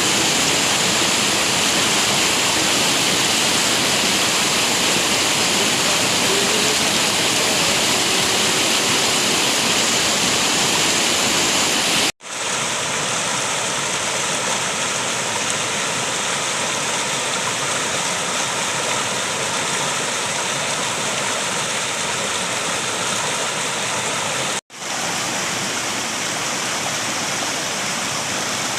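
River water rushing, a steady full noise. It breaks off for an instant twice, about 12 and 25 seconds in, and each time comes back a little quieter.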